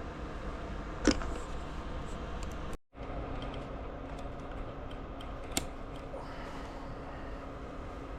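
Electric space heater running with a steady hum, broken by a sharp click about a second in and a fainter click near six seconds. The sound cuts out for a moment just before three seconds, then the steady hum carries on.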